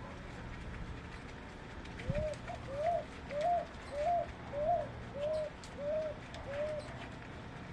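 A dove calling a series of eight short, evenly spaced coo notes, each rising then levelling off, over steady low background noise; a brief low thump comes as the series starts.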